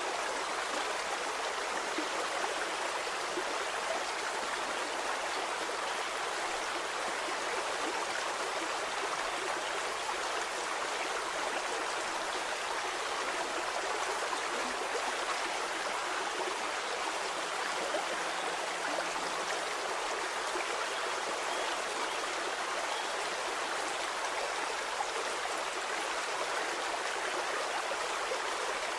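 A shallow stream flowing steadily, a continuous babble of water over stones with fine splashes and trickles.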